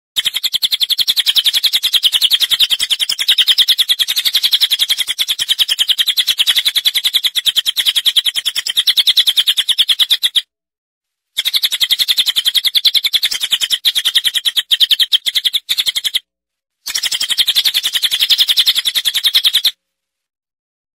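Songbird calls from a masteran recording mixing cililin, lovebird and siri-siri: a loud, very fast, continuous chirping trill, high in pitch, broken twice by brief silences and stopping abruptly near the end.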